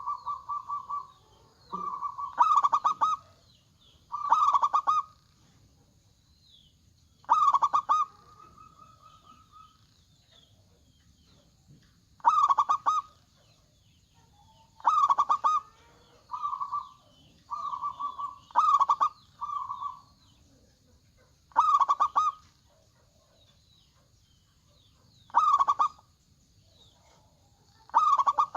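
Local zebra dove (perkutut) cooing: a loud, stuttering, rolling coo repeated every two to four seconds, some with shorter coo notes in between.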